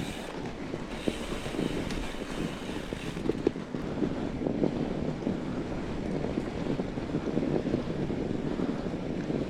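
Fat bike tyres rolling and crunching over snow, with wind buffeting the microphone.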